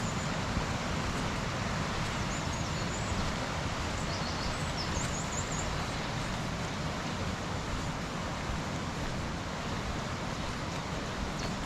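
Steady rushing of a rain-swollen river through a rocky gorge, with a few faint high bird chirps a few seconds in.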